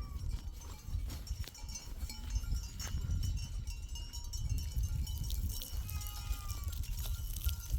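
Faint bleating from livestock, a few calls, one set about 6 s in, over a steady low rumble with scattered clicks.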